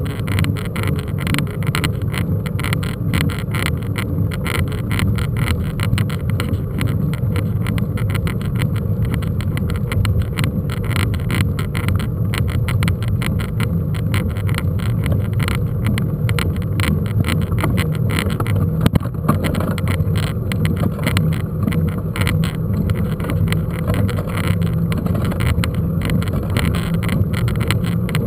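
Riding noise from a mountain bike on rough ground, picked up by a camera riding along: a steady low rush full of small rattles and knocks, with one sharper knock about 19 seconds in.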